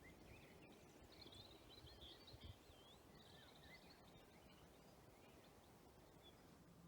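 Faint songbirds singing at dusk: short warbling chirps and trills over a quiet woodland hush, fading out after about four seconds.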